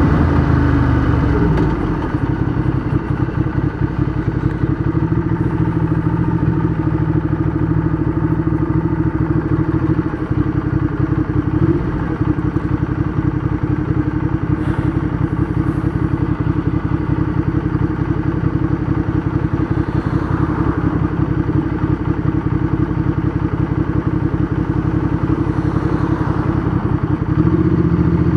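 Ducati Diavel 1200's L-twin engine, breathing through a loud aftermarket race exhaust, running at steady revs under the rider.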